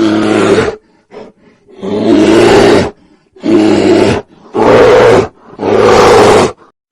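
A big cat roaring: five loud, deep roars in quick succession, each about a second long, with a short faint grunt after the first.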